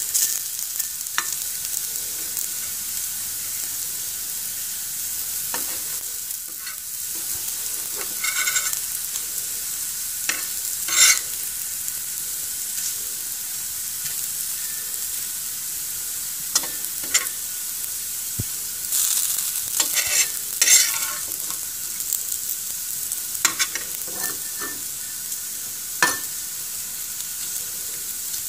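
Rice-flour-coated slices of green banana, ridge gourd and chayote sizzling in a little oil in a flat pan, with a spatula scraping and flipping them now and then, most often around the middle.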